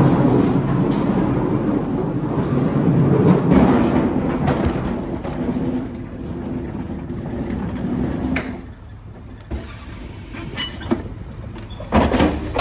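Pallet jack rolling a loaded pallet of batteries across the truck trailer's floor, a rattling rumble that drops away about eight seconds in, followed by a few sharp knocks near the end.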